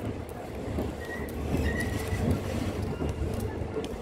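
Passenger train running slowly, heard from inside a coach: a steady low rumble of wheels on rails, with a few short high squeaks.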